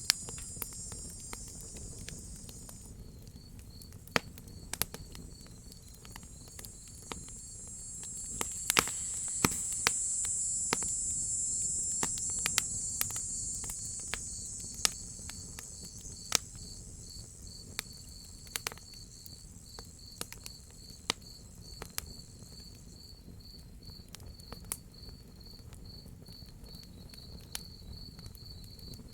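Crickets chirping in a steady pulsing rhythm, with a high insect trill that swells up a few seconds in and then fades. Under them a wood fire crackles with sharp, irregular pops over a low rumble.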